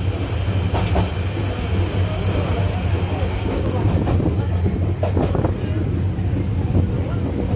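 Passenger train running along the track, heard from inside the carriage: a steady low rumble with a few wheel clacks over rail joints about a second in and again around five seconds in.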